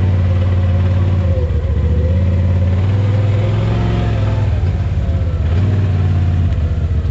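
Engine of an off-road side-by-side running steadily at low speed, its pitch wavering slightly up and down.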